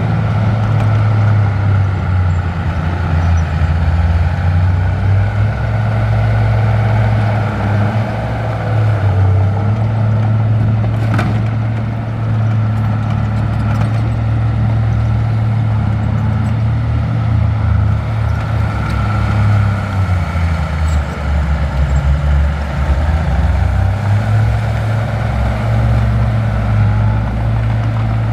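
Heavy diesel engine of earthmoving machinery running steadily under load, its pitch dipping and rising a few times. One sharp click about eleven seconds in.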